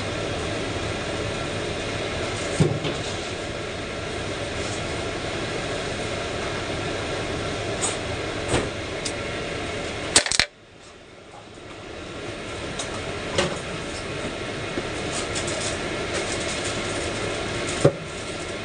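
Steady mechanical background noise with a few sharp knocks. The loudest knock comes about ten seconds in; right after it the noise cuts out sharply and builds back up over a couple of seconds.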